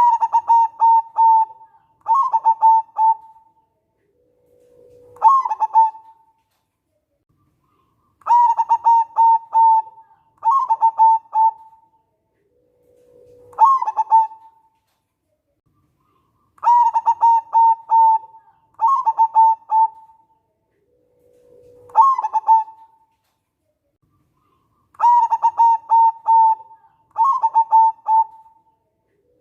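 Zebra dove (perkutut) singing: a three-part phrase of quick, rolling coos, the last part opening with a lower note, repeated about every eight seconds with silence between.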